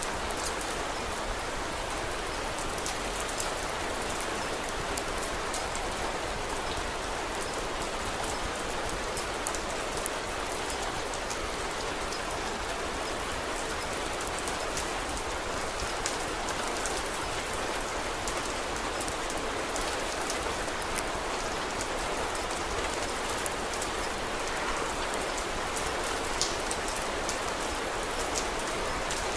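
Steady rain falling, a dense even patter, with scattered sharp crackles and pops from a wood fire.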